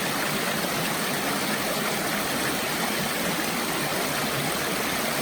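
Steady rushing of creek water running over rocks.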